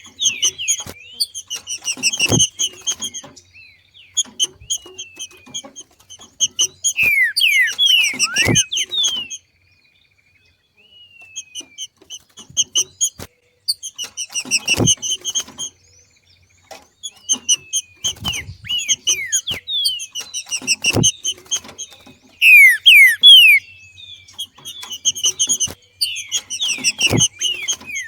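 Green-winged saltator (trinca-ferro) giving its 'macheado' call: repeated bursts of rapid chattering notes mixed with quick down-slurred chirps, broken by a short pause about a third of the way in. A sharp thump comes roughly every six seconds.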